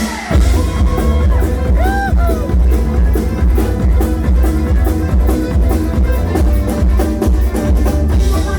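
A bluegrass cover band playing a rock song live on acoustic string instruments, with a strong bass and a steady, driving beat on a drum kit; the full band comes in sharply right at the start.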